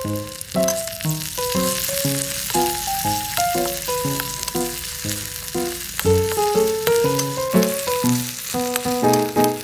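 Hot oil sizzling as chopped tomato, chili and garlic fry and are stirred in a small pan. Over it runs background music: a light tune of short notes, several a second.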